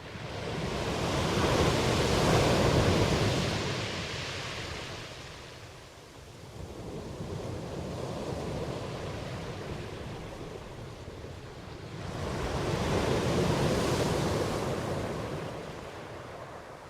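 Ocean waves breaking and washing on a shore, a rushing surge that rises and falls: two large waves, about two to three seconds in and again near thirteen seconds, with a smaller swell between them.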